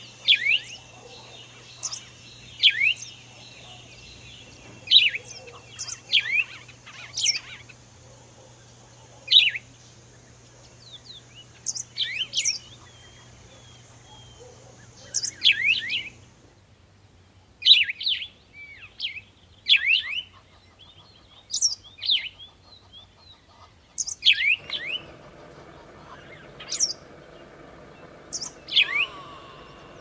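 A bird calling: sharp, high chirps that fall steeply in pitch, repeated every one to two seconds.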